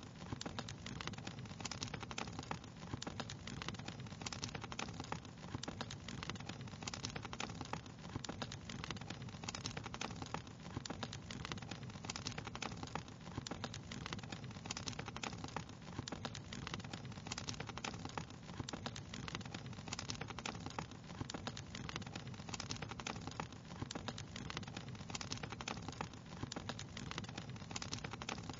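Fireplace fire crackling steadily: a dense run of small pops and snaps over a constant low hiss of burning.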